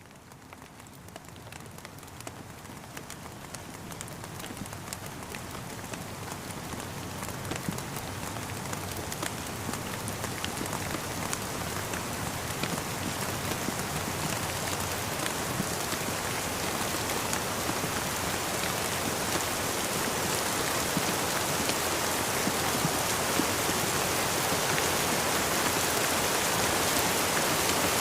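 Rain falling steadily, a continuous hiss dotted with many small drop taps, growing gradually louder throughout as it fades in.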